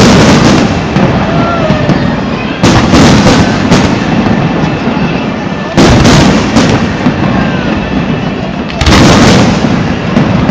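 Aerial fireworks bursting: loud booms come every second or two, about six in all, with the heaviest a little under 3 s in, near 6 s and near 9 s, over a continuous low rumble and crackle.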